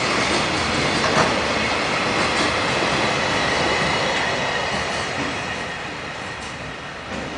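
Container freight train's wagons rolling past on the rails, with a high steady wheel squeal and occasional clacks over rail joints. The sound fades over the last few seconds as the train draws away.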